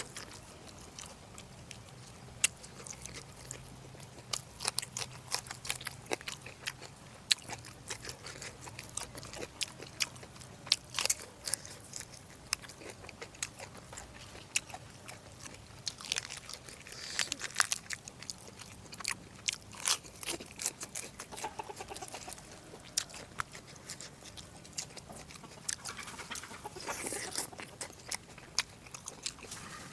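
A person chewing and biting food close to the microphone: a steady run of wet smacks and small crunches at an uneven pace.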